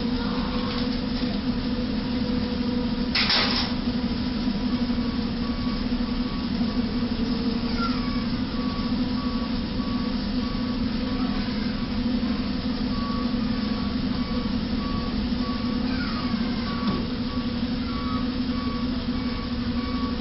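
Steady traffic and engine noise with a low hum. A short burst of noise comes about three seconds in, and from about five seconds in an evenly repeating high electronic beep sounds to the end.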